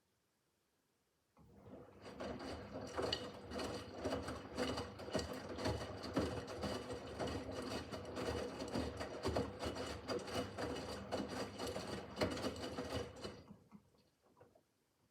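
Miele W5801 WPS front-loading washing machine turning its drum: a motor hum with laundry tumbling and knocking in the drum. It starts about a second and a half in, runs steadily for about twelve seconds, then fades out near the end.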